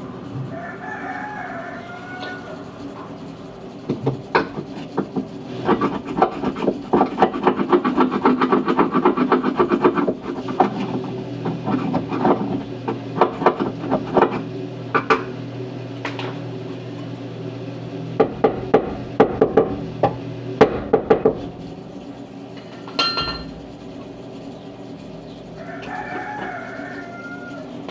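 Welding work: a steady low hum with bursts of rapid crackling and clicking. A rooster crows near the start and again near the end.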